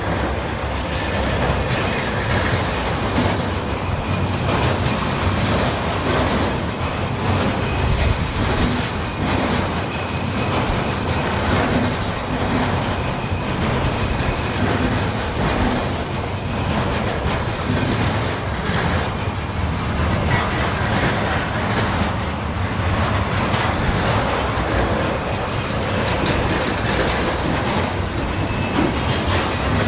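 Freight train rolling steadily past, its wagon wheels clattering over the rail joints with a continuous heavy rumble.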